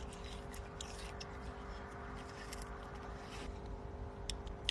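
Outer skin being peeled and scraped off a large aloe vera leaf, with scattered small clicks and scrapes and a sharper click near the end.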